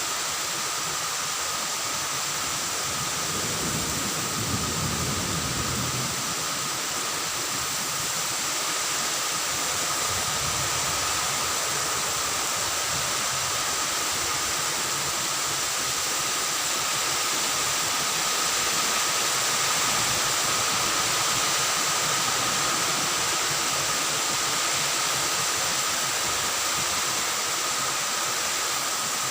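Steady rain falling, an even hiss, with a faint steady tone underneath and a brief low rumble about four seconds in.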